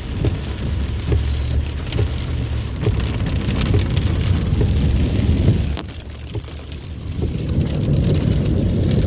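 Car driving through flood water in a downpour: a steady low rumble of water and tyres with the crackle of rain and spray on the car. It eases about six seconds in and builds again.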